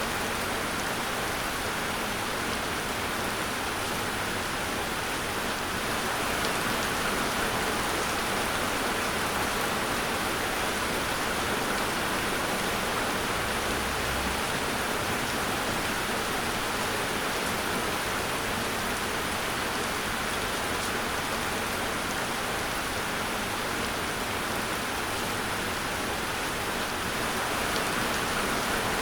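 Steady rain falling, an even continuous hiss of drops on a surface.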